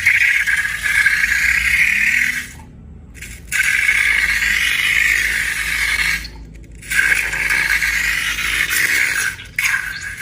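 Dense crackling, rattling noise of slime-making materials being handled, in three spells broken by short pauses about three seconds and six and a half seconds in.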